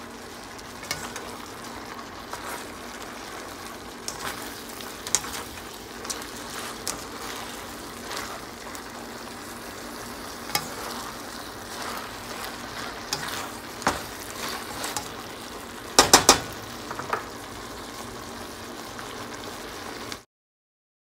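Bok choy and garlic sizzling in hot olive oil in a stainless steel pan, with scattered sharp clicks of a utensil stirring against the metal and a quick run of louder clacks about three quarters of the way through. The sizzle cuts off suddenly near the end.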